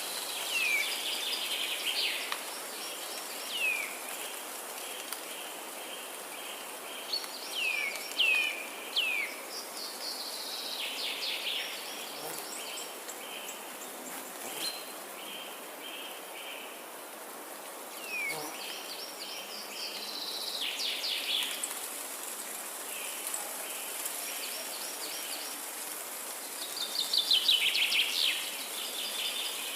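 Forest ambience: several songbirds sing in short repeated phrases of rapid trilled notes and quick down-slurred whistles, with the loudest burst of song near the end. A steady hiss runs underneath.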